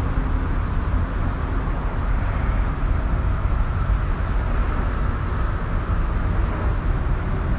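Diesel train running past with a steady low rumble.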